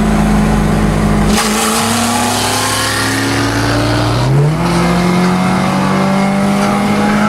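Car engine running hard and revving, its pitch climbing in steps as it accelerates, with a rushing noise joining in about a second and a half in.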